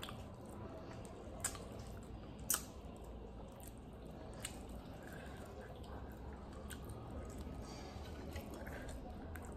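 Close-up eating sounds: soft chewing of a vegetable pakora, with a few sharp mouth clicks, the loudest about two and a half seconds in.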